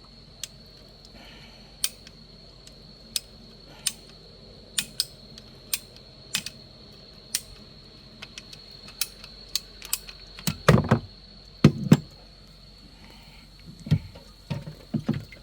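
Sharp clicks and knocks of hardware and plastic fittings being handled and fitted by hand, scattered irregularly, with a few heavier thumps about two-thirds of the way in. A faint steady high whine runs underneath.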